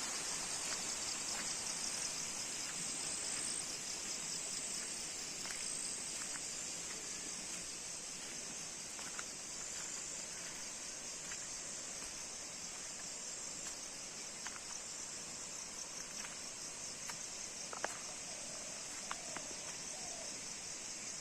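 Chorus of insects such as cicadas or crickets: a steady high-pitched buzz with a fast pulse, over faint outdoor background noise with scattered small clicks.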